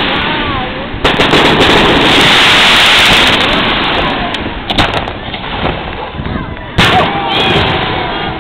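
Fireworks going off: sharp bangs about a second in, twice just before five seconds, and again near seven seconds, with dense crackling noise between them.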